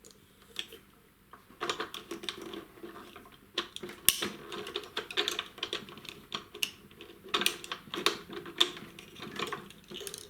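Hands fitting a flux-core wire spool and its spring into a welding machine: irregular clicking and rattling of small metal and plastic parts, starting about a second and a half in.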